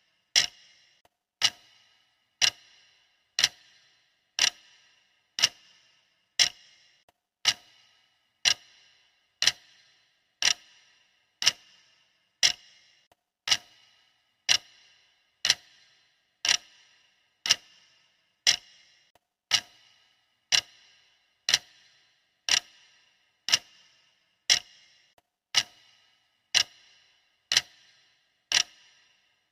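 Clock ticking steadily, one sharp tick with a brief ring every second.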